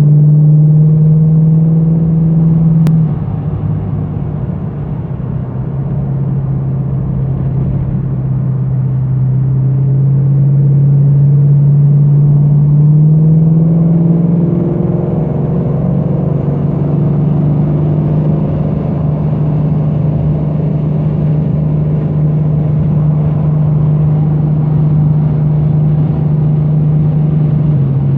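A 1970 Dodge Challenger R/T's 440 Magnum V8 running at steady revs, its pitch shifting a few times.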